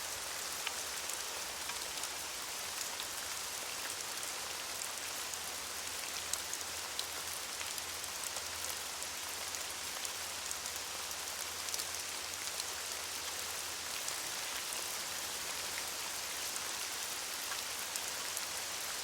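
Steady rain falling, a constant hiss dotted with many small individual drop ticks.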